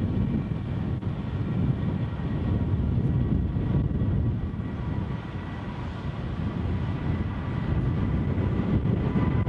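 Jet airliner's engines passing close by: a loud, steady low rumble with a faint high whine over it, building up in the first second and then holding.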